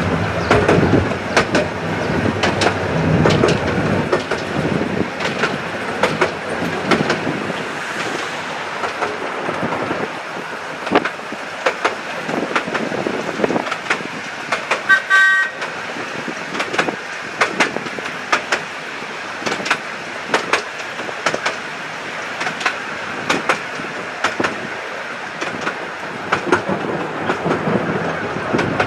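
Miniature railway train on the move, its wheels clicking over the rail joints at a steady rhythm with a running rumble. About halfway through there is one short toot of the whistle.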